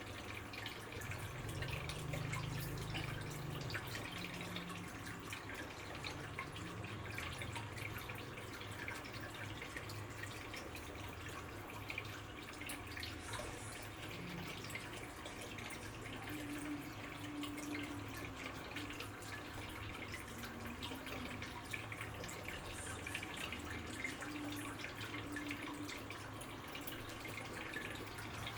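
Water trickling and dripping steadily, with many small drips and a low hum underneath.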